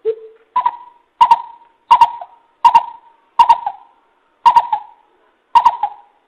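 Coucal (bìm bịp) calling: a series of deep, hollow hooting notes, the first lower, then about seven higher notes repeated evenly, roughly one every 0.7 seconds.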